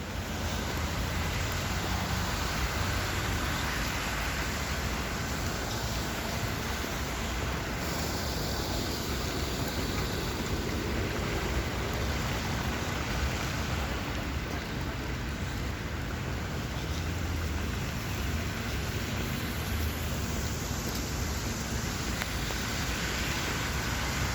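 Heavy rain pouring down in strong wind: a steady, even hiss of the downpour with a low rumble underneath.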